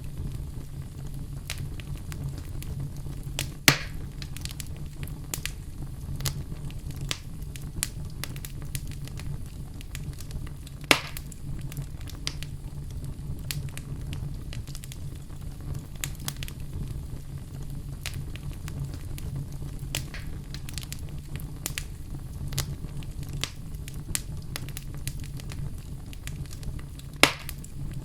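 Wood fire crackling in a fireplace: a steady run of small crackles with three sharp, louder pops from the logs, over a constant low rumble.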